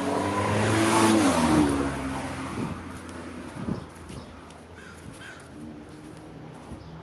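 A motor vehicle passing by: the engine and tyre noise swells to a peak about a second in, the engine note drops in pitch as it goes past, then it fades away.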